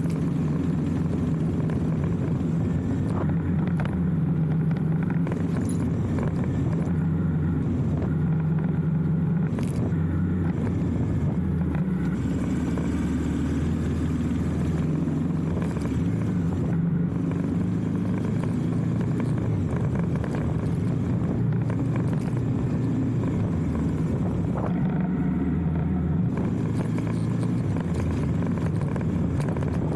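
Motorcycle engine running as it is ridden, its low note shifting up and down every few seconds with throttle and speed.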